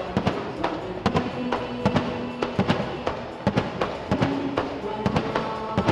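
Music with a heavy drum beat and held notes, mixed with the repeated bangs of aerial firework shells bursting.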